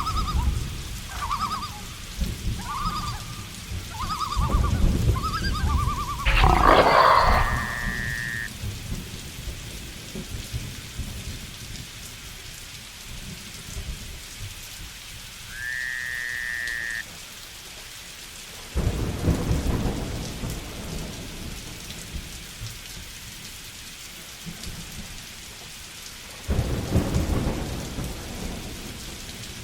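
Steady heavy rain with several rolls of thunder: rumbles near the start, about a quarter of the way in, about two-thirds in and near the end. In the first few seconds an animal gives a short rising call about once a second. Twice a brief held whistle-like call sounds.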